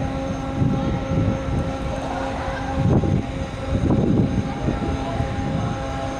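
Steady low hum of a large car ferry's engines, with irregular low rumbles over it, loudest about three and four seconds in.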